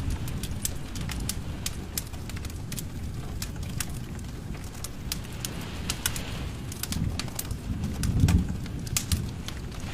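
Wood fire crackling, with frequent sharp little pops over a low, steady rumble of the flames that swells briefly near the end.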